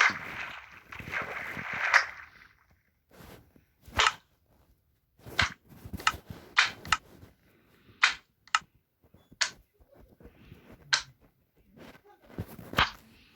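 Rustling or scraping noise for about the first two seconds, then about ten sharp knocks or snaps at uneven intervals.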